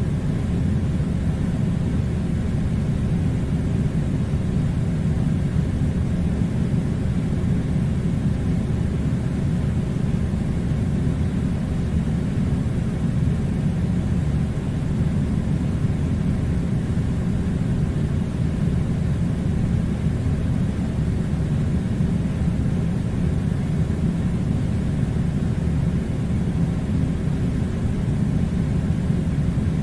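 Air conditioner running steadily, a constant low rumbling hum with a faint hiss above it.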